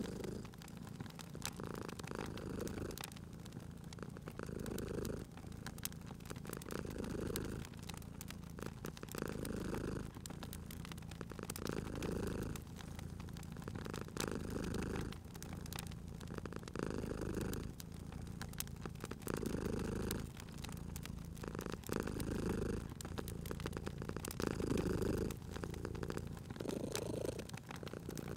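Domestic cat purring, the purr swelling and easing with each breath about every two seconds, over the scattered pops and crackles of a wood fire.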